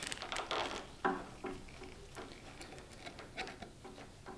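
Electrical cable being fed through a channel in the bench frame: light rubbing and rustling with small irregular clicks, and a sharper knock about a second in.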